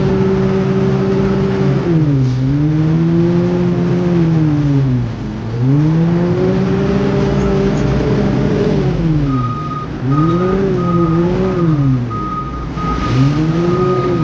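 Heavy construction machine's engine revving up and dropping back again and again, every few seconds. A repeating high beeping alarm comes in about nine seconds in.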